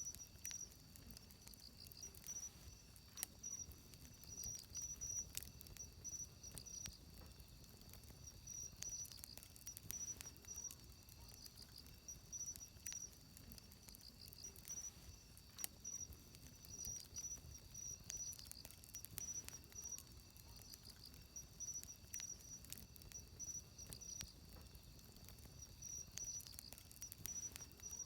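Wood fire crackling with scattered sharp pops, over insects chirping in a steady, high, pulsing trill.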